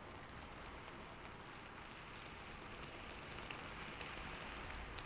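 Steady rain ambience, a soft even patter of falling drops.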